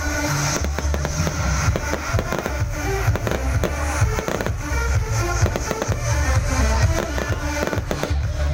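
Fireworks bursting in rapid, irregular bangs, with music and a heavy bass beat playing under them.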